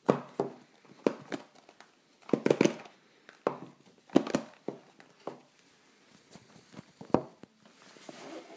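Phone box and packaging being handled during an unboxing: a series of irregular sharp taps and knocks with some crinkling, busiest a little over two seconds in.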